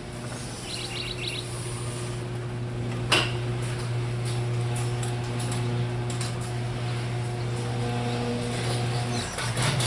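A steady low motor hum with fainter higher tones, a short run of high chirps about a second in and a sharp click about three seconds in.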